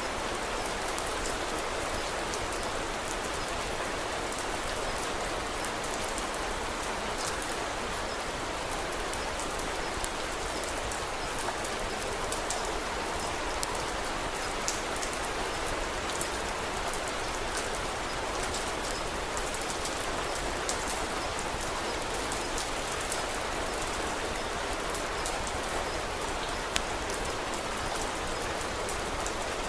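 Steady rain hissing without a break, with scattered faint sharp pops and ticks.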